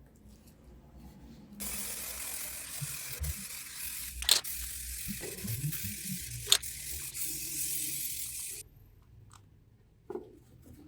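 A spray hissing steadily for about seven seconds, starting and stopping abruptly, with two sharp clicks partway through.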